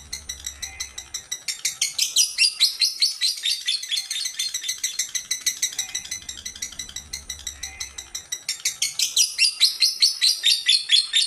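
Female lovebird calling: a continuous string of rapid, shrill chirps, about five a second, swelling louder about two seconds in and again near the end.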